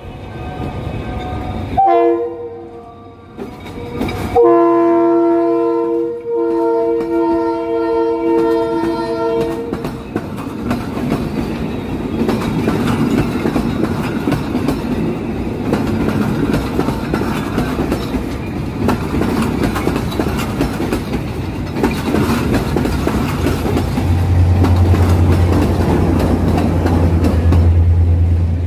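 Locomotive horn sounding: a short blast, then a long blast of about five seconds that changes pitch partway through. The passenger train then runs close by, with wheels clacking over the rail joints over a steady rushing noise, and a low steady rumble comes in near the end.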